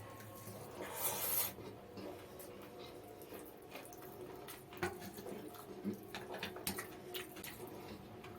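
Close-miked eating sounds of mutton biryani with raita: wet squelching and many small mouth clicks and smacks, with a brief louder rubbing rustle about a second in.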